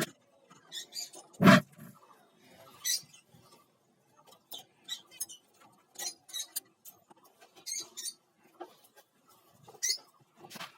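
Lovebirds giving short, harsh, high chirps in scattered bursts, with one loud thump about a second and a half in.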